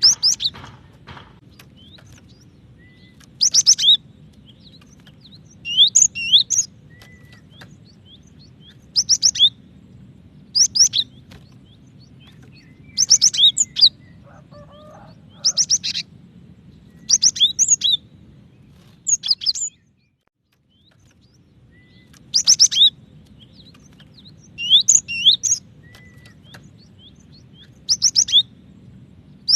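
Female cinereous tit (gelatik batu) calling: short, loud bursts of two to four sharp, high notes, repeated every two to three seconds, over a faint low hum. The sound cuts out completely for about a second about two-thirds of the way through, then the calls resume.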